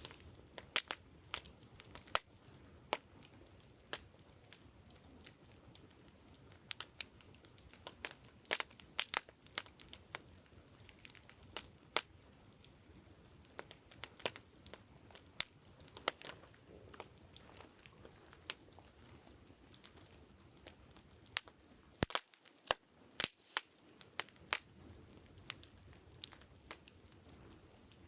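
Wood campfire crackling, with irregular sharp pops and snaps scattered throughout, a few louder ones close together around two-thirds of the way in.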